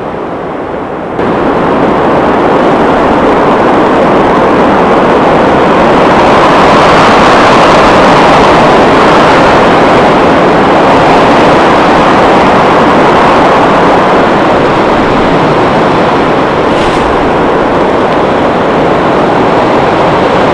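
Strong gusting blizzard wind rushing across the microphone: a loud, continuous roar of noise that jumps up sharply about a second in and stays high.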